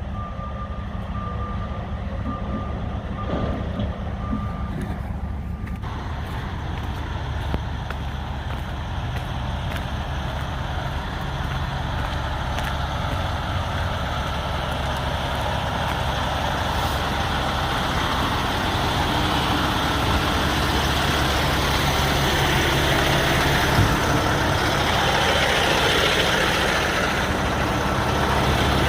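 Semi-truck diesel engine running, with a repeating high beep over it for the first six seconds or so; the engine and road noise then build steadily louder as the truck gets moving.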